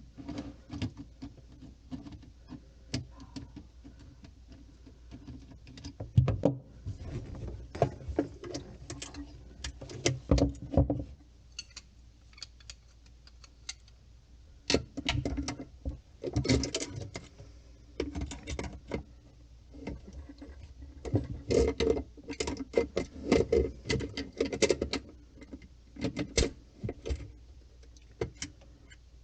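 Irregular clinking, knocking and rattling of hand tools and small parts being handled and set down, in uneven clusters, over a steady low hum.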